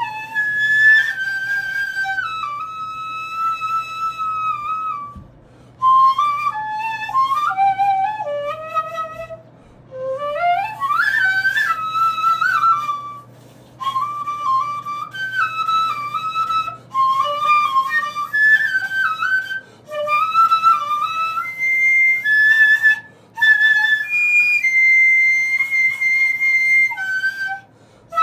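Iwabue, a Japanese natural stone flute, played solo in high, slow phrases with sliding, bending notes and a fast upward sweep about ten seconds in, the phrases separated by brief pauses for breath.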